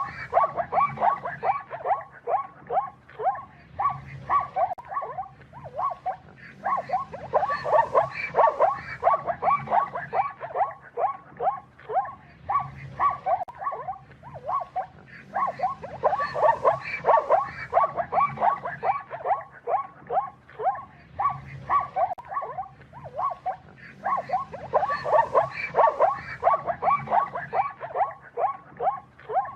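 An animal's rapid, pulsed grunting calls, swelling into dense runs about every eight seconds.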